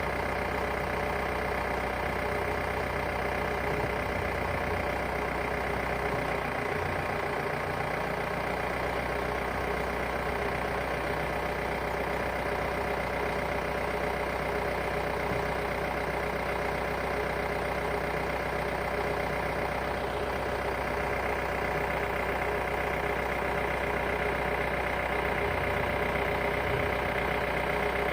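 A motor running steadily at an even pitch, with no rise or fall.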